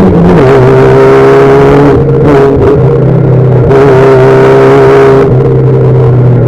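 Loud engine of a V1600-class Fiat Bravo rallycross car running hard at high revs. Its pitch steps down about half a second in, then holds fairly steady.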